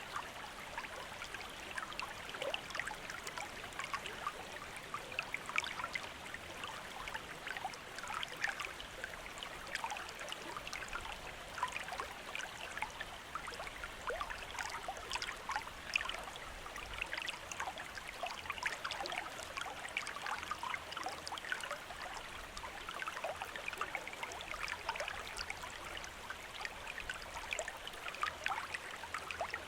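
Small stream or river running over stones: steady burbling and trickling water with many little splashes.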